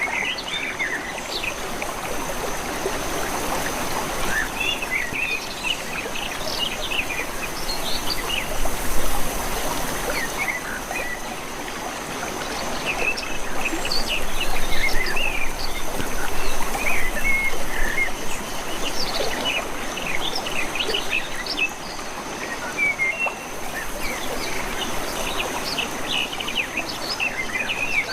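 Water flowing in a small canal, a steady rushing hiss, with birds chirping in many short calls over it and a thin steady high-pitched tone underneath.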